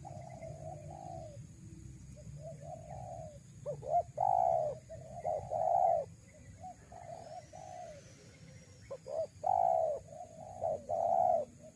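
Spotted doves cooing in repeated phrases of low notes, soft at first, then loud, close calls from about four seconds in.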